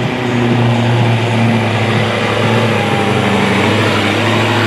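Sport-class pulling truck's diesel engine running loud and hard under full load as it drags the weight sled down the track, its note holding steady.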